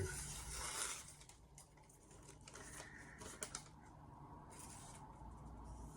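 Faint rustling with a few light clicks, the sound of objects being handled on a work surface; the rustling is loudest in the first second, with a sharper click about three and a half seconds in.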